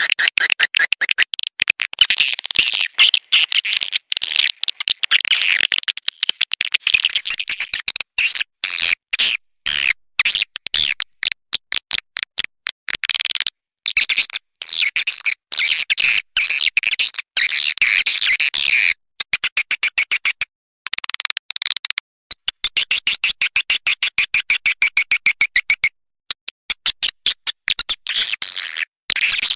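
Swiftlet call recording played as a lure for swiftlets: rapid, high-pitched chattering chirps in dense runs, broken now and then by brief pauses.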